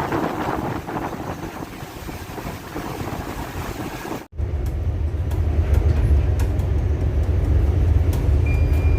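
Strong wind and sea noise on a ship in a storm; after a sudden cut about four seconds in, the deep, steady rumble of a ship's engine heard from inside the vessel, with faint scattered clicks.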